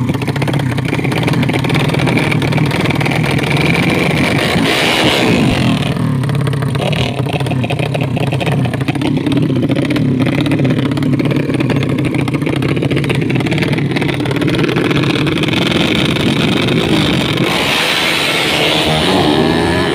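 An engine running steadily at a loud level, with shifts in its pitch pattern about five seconds in and again near the end.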